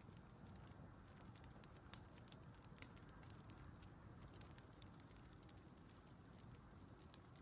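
Faint crackling wood fire: a steady low rumble and hiss with irregular sharp pops and snaps. This is a recorded fireplace ambience used as background.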